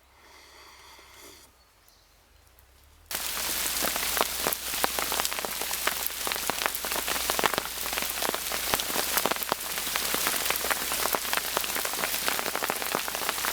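Hail falling in a thunderstorm: a dense patter of countless small ice hits that starts abruptly about three seconds in, after near silence.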